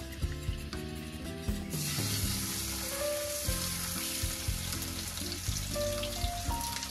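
Food sizzling as it fries, a steady hiss that starts suddenly a little under two seconds in, over background music with a simple melody.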